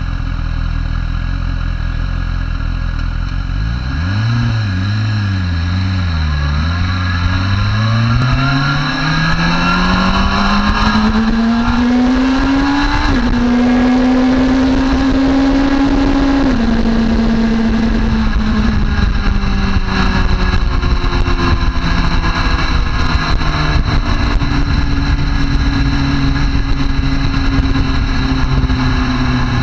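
Sport motorcycle engine accelerating through the gears: its pitch climbs for several seconds, drops at two upshifts about 13 and 16 seconds in, then slowly falls as the throttle eases, over a steady rush of noise.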